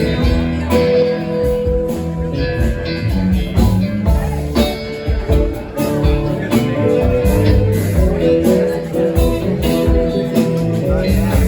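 Instrumental music led by strummed guitar, with a steady beat and no singing.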